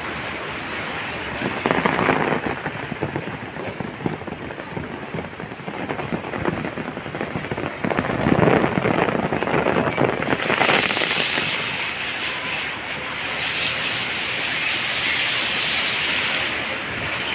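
Heavy monsoon rain falling, a continuous hiss. It surges louder twice, near 2 s and again around 8–10 s, and turns brighter and higher from about 10 s on.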